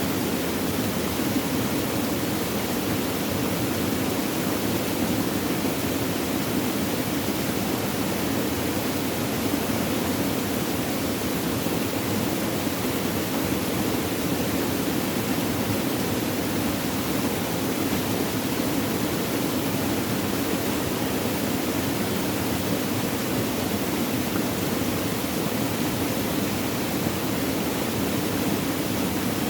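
Flowing water running steadily, an even rushing noise with no breaks or changes.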